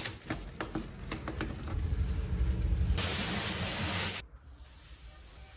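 Rustling, crackling and rubbing of a self-adhesive wall sticker being applied and smoothed onto a wall by hand, with about a second of steady hiss about three seconds in.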